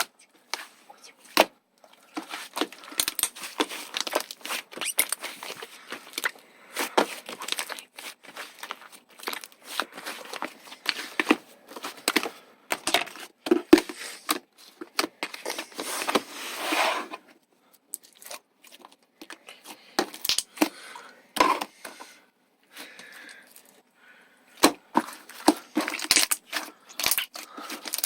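Slime being squished and stretched by hand, giving sticky crackles, pops and clicks in irregular bursts, with a few short pauses.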